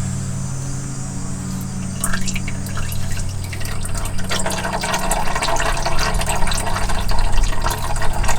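Engine oil pouring and splashing into a drain pan from the oil filter mount of an Onan 7500 diesel generator as the filter comes off. The flow starts about two seconds in and grows heavier about halfway through.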